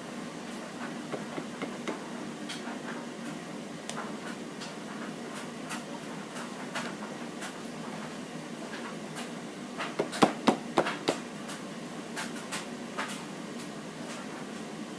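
Scattered light clicks and taps of a small nail varnish bottle being handled and tapped while trying to get the varnish out, with a quick run of louder knocks about ten seconds in.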